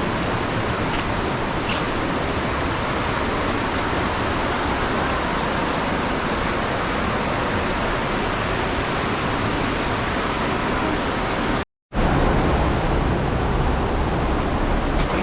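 Rushing river water, a steady loud hiss. Near the end it cuts out for a moment and comes back louder and deeper.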